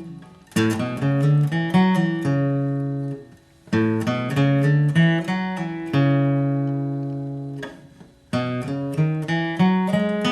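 Acoustic guitar playing a single-note bluegrass lead melody at a slow teaching pace: three short phrases of picked notes, each ending on a held note left to ring and fade before the next phrase starts.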